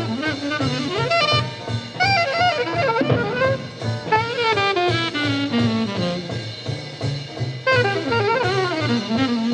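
Bebop jazz: a fast saxophone line running up and down over drums and bass.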